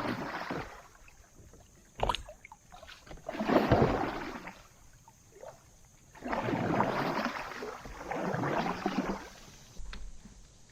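Kayak paddle strokes through the water: three or four separate swishing surges about a second long, with a knock against the hull about two seconds in.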